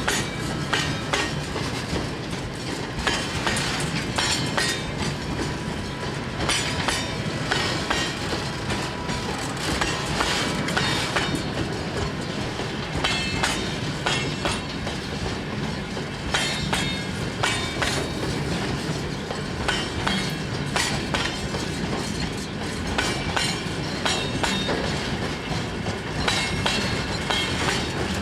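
Freight train wagons rolling past, their wheels clattering in an irregular string of clicks over the rail joints, with a faint high wheel squeal near the start.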